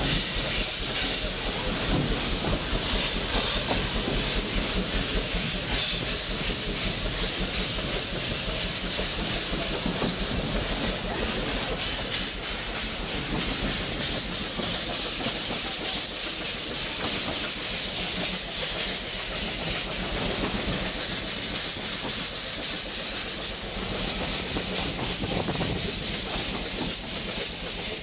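Vale of Rheidol narrow-gauge steam locomotive No. 8, a 2-6-2 tank engine, working a train: a steady rush of steam hiss and exhaust mixed with the running noise of the carriages on the rails.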